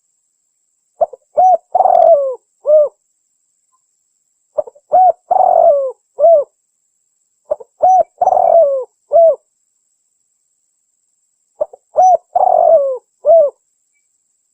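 Spotted dove cooing in a lure-call recording of a female calling a male. The same phrase comes four times, about every three to four seconds: two or three short coos, a longer, rougher coo that falls away, and a final coo.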